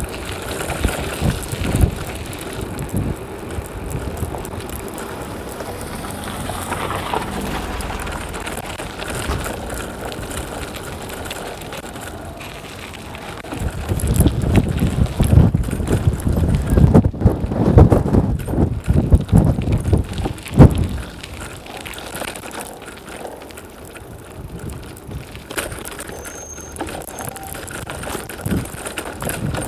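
Strong wind buffeting the microphone while riding a bicycle, over the hiss and rattle of the tyres on the road. The wind rumble swells into a run of loud gusts a little past the middle, then drops back.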